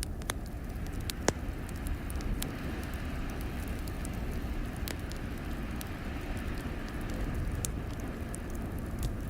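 Wood fire crackling, with scattered sharp pops and one louder snap about a second in, over a steady low rumble of blizzard wind.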